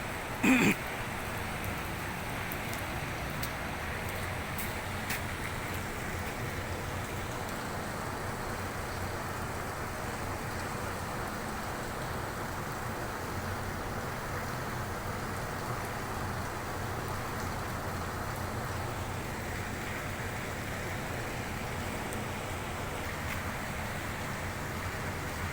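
Steady hiss of abrasive sandblasting on a ship's steel hull, holding even throughout. A brief loud pitched sound cuts in about half a second in.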